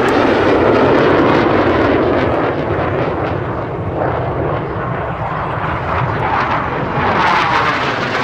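Jet roar from BAE Hawk T.65A display jets flying past, Rolls-Royce Turbomeca Adour turbofans. It is loud and steady, and a sweeping, phasing whoosh near the end marks a jet passing close overhead.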